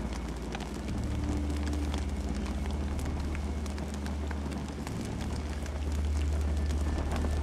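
Campfire burning: scattered crackles and pops over a steady low rumble.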